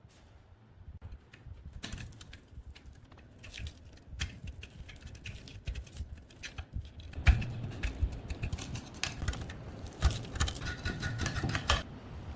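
Irregular clicks, taps and scrapes of hand work on metal gun parts, growing denser and louder about seven seconds in.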